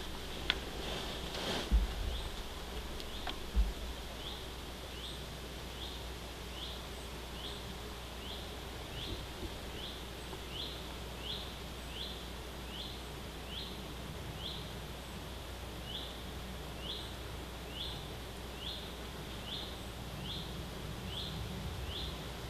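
A songbird in forest repeating one short, high call over and over, a little more than once a second, from about four seconds in, over steady outdoor background. A few low thumps come in the first four seconds.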